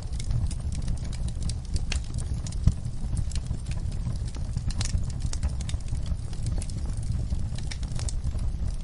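Wood fire in a fireplace crackling, with irregular sharp pops and snaps over a low steady rumble of the flames; one louder pop about a third of the way through.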